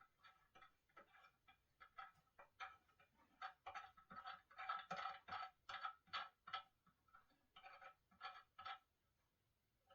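A quick run of short, squeaky strokes, about two to three a second, growing louder toward the middle and then dying away.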